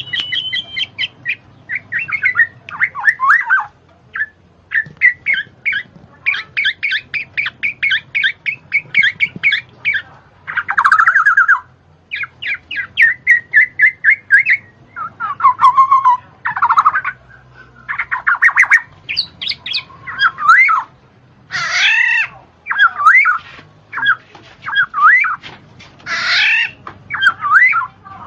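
A bird singing and calling in short bursts: quick runs of repeated sharp chips, gliding warbled notes and harsh squawks, with brief gaps between phrases.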